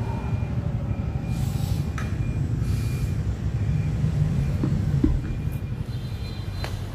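A 2001 Fiat Siena 1.3 engine idling with a steady low rumble. A few light clicks come through.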